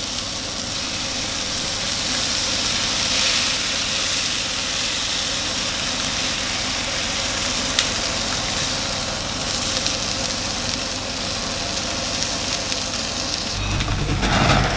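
Vegetables and beaten egg frying in a frying pan on a gas hob, a steady sizzle; near the end a lower rumble joins in.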